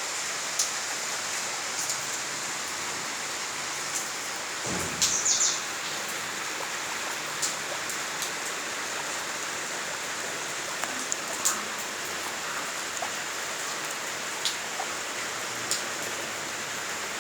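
Guinea pig munching hay: scattered short crunches and rustles over a steady hiss, with a brief louder bout of rustling about five seconds in.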